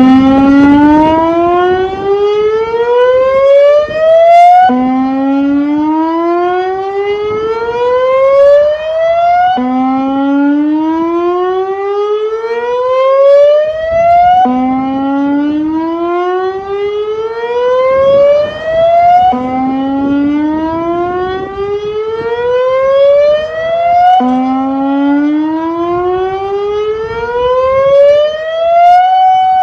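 Severnside warning siren No. 7 sounding on test after repair: a loud siren tone that starts abruptly, glides steadily up in pitch over about five seconds, drops back down at once and rises again, six times over, then settles into a steady held tone near the end.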